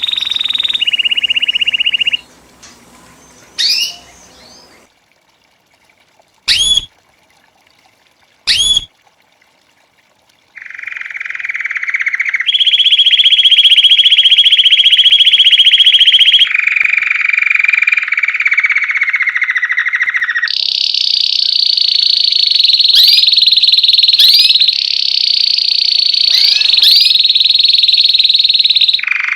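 Belgian canary singing: a few short chirps and a near-quiet pause, then from about ten seconds in, long unbroken trilled rolls, each held for a few seconds before jumping to a new pitch.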